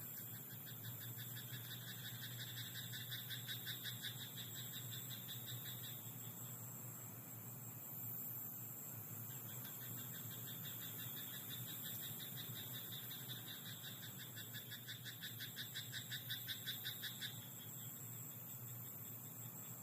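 Frogs calling in a rice paddy: long runs of rapid, evenly pulsed croaks, one stopping about six seconds in and another running from about ten to seventeen seconds. A steady high hiss sits underneath.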